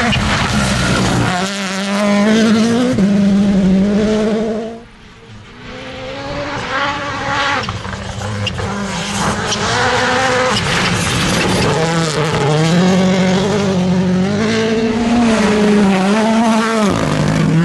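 Rally cars' turbocharged four-cylinder engines revving hard, the pitch climbing and dropping again and again with gear changes and lifts off the throttle. The sound drops away briefly about five seconds in, then engine noise builds again.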